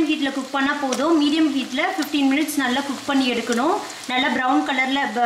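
Pandan-leaf-wrapped chicken deep-frying in hot oil, sizzling as a skewer turns the wraps. A pitched voice, like singing, runs over the frying and is the loudest sound.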